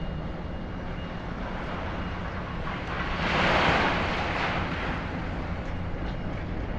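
High-reach demolition excavator engine running steadily. From about three seconds in, a noisy crash of concrete and wall debris falling lasts about two seconds.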